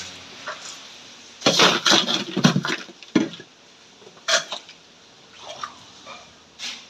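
Hard objects clattering and knocking together: a quick run of loud clatters about a second and a half in, then a few single knocks spread through the rest.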